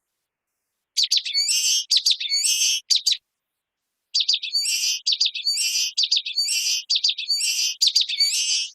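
Common waxbill (bico-de-lacre) singing: repeated high, short phrases, each a quick run of sharp notes ending in a buzzy note. The song starts about a second in, breaks off after about three seconds, and resumes a second later.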